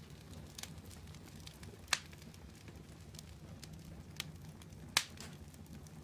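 Wood fire burning in a fireplace: a low steady rumble of flames with sharp crackles and pops from the burning wood, two of them louder, about two seconds and five seconds in.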